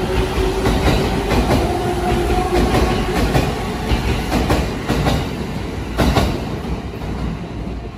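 Electric commuter train pulling out past the platform, its wheels clacking over rail joints above a steady rumble, with a humming tone over the first few seconds. A last burst of clacks comes about six seconds in as the rear car passes, and then the sound fades.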